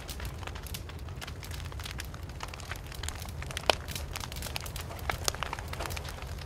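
Wood fire burning, crackling with irregular sharp snaps over a steady low rumble; the loudest snap comes a little past halfway.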